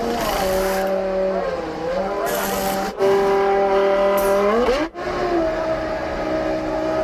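Formula One car's 3-litre V10 engine running at high revs, its pitch holding, dipping and then climbing steeply as it revs up. The sound breaks off abruptly twice.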